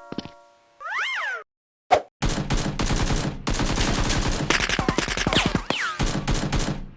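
Rapid automatic gunfire, in the style of a dubbed machine-gun sound effect for a mock firefight, running in fast continuous bursts for about five seconds. It is preceded by a short whooshing sweep and a single sharp shot.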